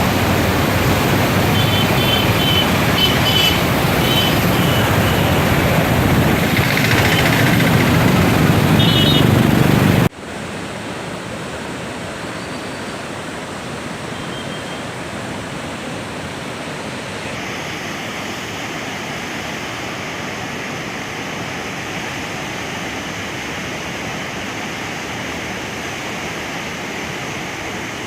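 Flood water rushing through the lifted gates of a river barrage, a steady dense rush. About ten seconds in it cuts abruptly to a quieter, duller rush that runs on evenly.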